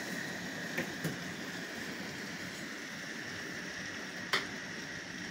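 Steady hiss of heavy rain falling, with a few sharp taps of drops striking a surface.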